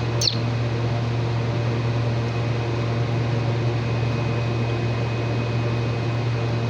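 Steady low hum of a running electric appliance, with a short high squeak from a young parakeet right at the start.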